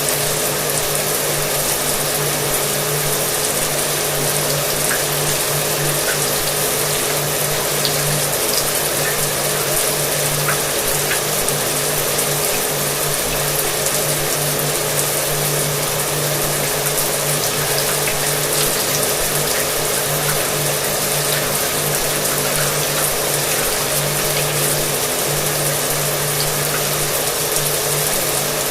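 Shower water spraying steadily, with a hair dryer running alongside it; the dryer's motor gives a steady low hum beneath the water's hiss.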